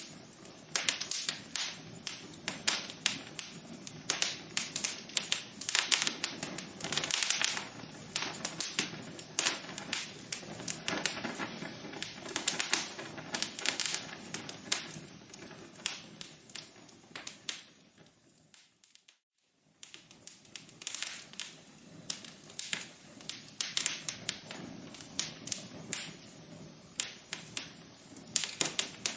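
Wood fire in a fireplace crackling, with many sharp irregular pops and snaps over a soft hiss. It fades almost to silence for about a second around two-thirds of the way through, then the crackling resumes.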